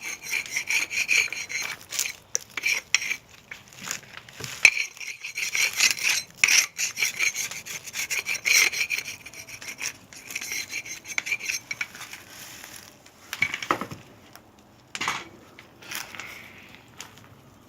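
Wood being sawn by hand: a run of fast, rasping back-and-forth strokes that stops about twelve seconds in, followed by a couple of separate knocks.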